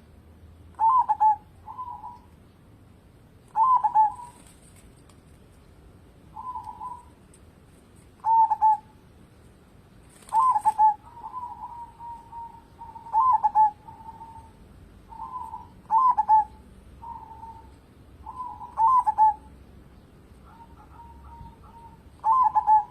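Zebra dove (perkutut) cooing: short rolling coo phrases repeated every few seconds, some trailing off into a longer held note.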